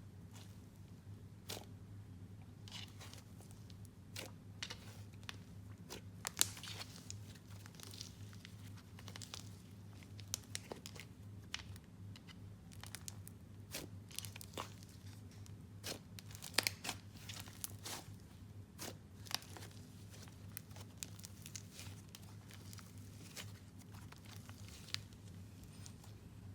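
Hands stretching and squishing an icing and cloud slime hybrid topped with foam beads, making many soft, irregular crackles and pops as the fluffy slime pulls apart and tears.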